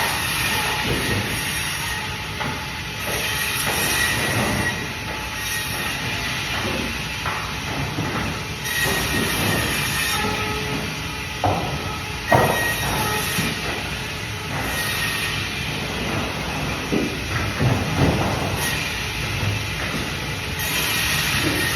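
Band saw running and cutting through fish: a steady machine noise with a thin whine and swells of hiss that come and go every few seconds, broken by occasional sharp knocks.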